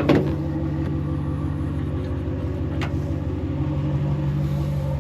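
Pickup truck engine running with a steady low hum, with a single sharp knock at the very start.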